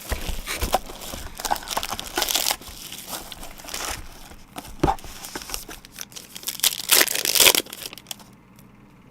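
Trading card packaging crinkling and tearing as packs are opened by hand, in irregular bursts with two louder rips.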